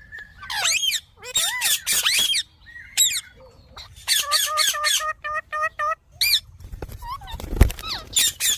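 Indian ringneck parrots squawking: harsh calls that bend up and down in pitch, with a quick run of short, even squawks, about five a second, midway through. A low bump comes near the end.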